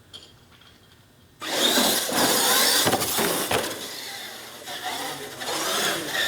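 Scale R/C monster trucks launching in a drag race, their motors whining under hard acceleration, starting suddenly about a second and a half in and staying loud.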